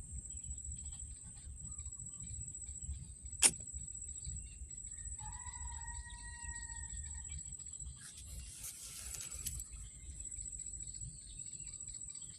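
Outdoor ambience with a constant high-pitched drone, a single sharp click about three seconds in, and a bird's long, even whistled note around the middle.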